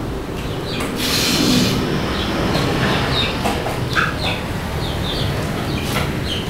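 Small birds chirping in short repeated notes over a steady low rumble, with a brief hiss about a second in and a few light clicks and knocks.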